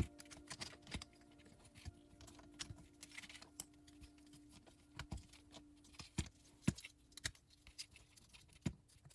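Light, irregular clicks and taps of 3D-printed PLA plastic parts being handled and fitted together, over a faint steady hum that stops near the end.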